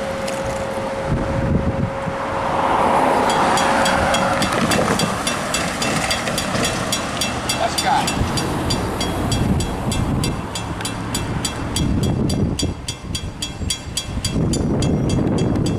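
Electronic railroad crossing bell on WCH crossing signals starts ringing about three seconds in, a rapid, evenly spaced ding as the crossing activates for an approaching train. Heavy wind rumble on the microphone runs underneath.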